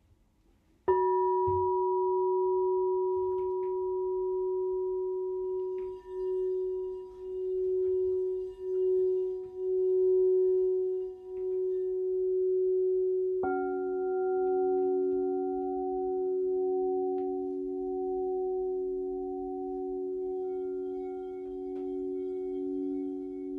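Crystal singing bowl struck about a second in, ringing with a slowly wavering, pulsing tone. A second, lower-pitched bowl is struck about halfway through, and the two ring on together.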